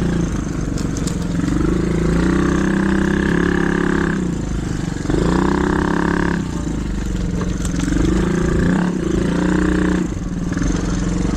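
Small single-cylinder trail bike engine being ridden, its revs rising and falling in three pulls of the throttle, with a low rumble of wind on the microphone.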